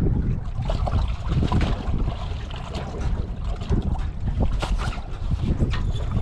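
Wind buffeting the microphone with a low, uneven rumble, with scattered small knocks and ticks over it.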